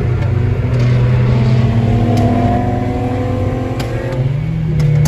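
Car engine running under load while driving. Its note climbs slowly, then steps up in pitch and gets louder about four seconds in.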